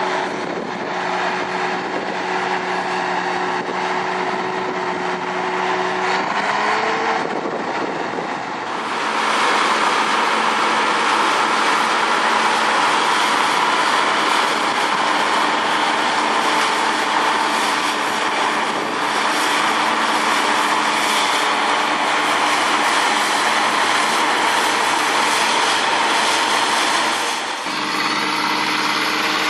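Machine engines in three recordings cut one after another. First an engine runs with a steady hum that rises in pitch about six seconds in. From about nine seconds a louder, noisier machine runs steadily. Near the end a different engine runs steadily.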